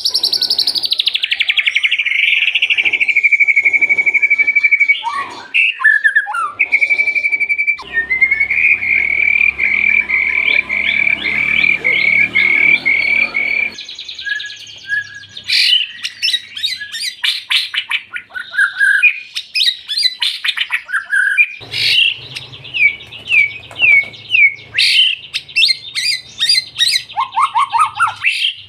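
Murai batu (white-rumped shama) singing loudly: a long, varied run of clear whistles, trills and rapid repeated chirps. The background changes abruptly a few times, as if separate recordings are joined, with a low hum behind the song in some stretches.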